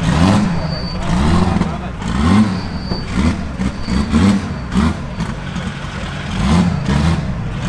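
Twin-turbo Chevrolet Omega making about 1200 wheel horsepower, revved hard while standing: a run of short revs, each rising quickly and dropping back, roughly one a second with a quicker cluster mid-way.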